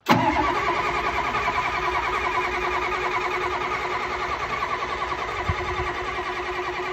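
Diesel engine cranking over on a cold start, turning in a fast, even chug with a steady whine underneath, starting abruptly and easing slightly in level. A brief low thump about five and a half seconds in.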